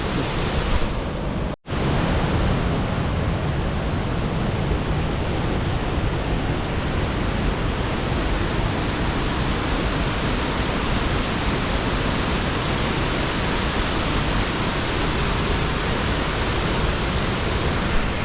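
Swallow Falls waterfall rushing in a steady, even roar of falling water. The sound drops out for an instant about a second and a half in.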